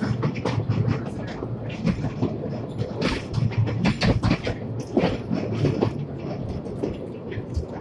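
Narrow-gauge park railway train running along the track, with the wheels clicking and the carriage rattling over the rails under a steady low rumble.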